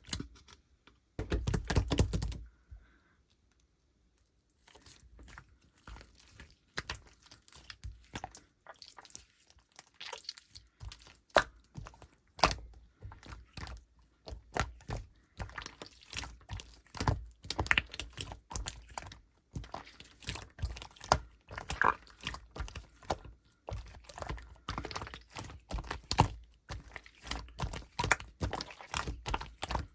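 Clear slime mixed with clay being kneaded and pressed by hand: a dense, irregular run of sticky clicks and crackles. A louder burst of handling comes about a second in, followed by a short pause.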